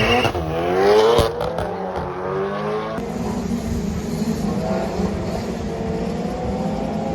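Drag racing cars accelerating hard down the strip, the engine pitch climbing steeply with a few sharp breaks in the first second and a half. After an abrupt change about three seconds in, the engines are a little quieter, their pitch rising slowly.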